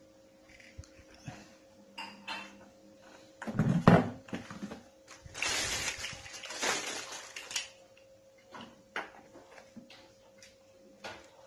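Plastic caster wheels being pressed by hand into the base of a Ryu RVC 15 vacuum cleaner: scattered clicks and knocks of hard plastic, a loud knock about four seconds in, then a couple of seconds of scraping and rustling.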